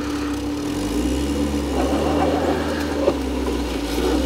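Fiat Palio hatchback's engine running steadily under load while the car, stuck in mud on a slope, is pushed from behind.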